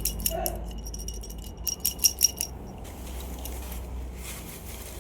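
Small hard toys and packaging being handled close up: a run of light taps and clinks with a brief ring, the sharpest about two seconds in, followed by soft rustling.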